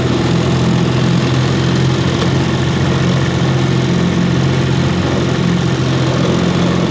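1953 Elgin 5.5 hp two-cylinder two-stroke outboard motor running steadily at a low, even speed, restored and running smoothly after twenty years idle.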